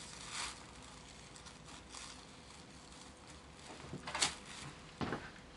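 Marking tool scratching along the edge of a paper pattern laid on fabric, in a few short strokes with light rustling, the stronger strokes near the end.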